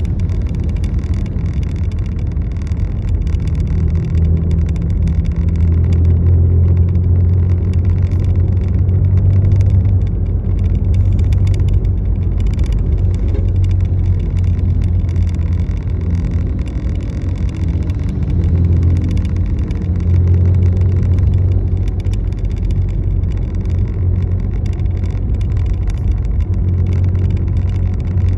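Motor vehicle running steadily: a continuous low engine and road rumble that swells and eases, with a faint shifting whine midway.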